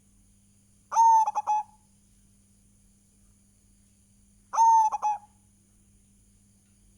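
Zebra dove (perkutut) cooing: two phrases about three and a half seconds apart, each a drawn-out note followed by a few quick short notes.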